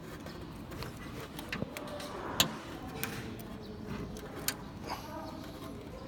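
Scattered light clicks and taps a second or two apart, the strongest about two and a half seconds in, over a low steady background: small parts and tools being handled during a motor replacement.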